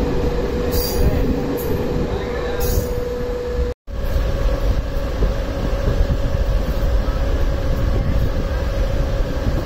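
Express train coach running on the track, heard from its open door: a steady rumble of wheels on rail with a thin steady tone above it. The sound drops out for a moment about four seconds in and then carries on.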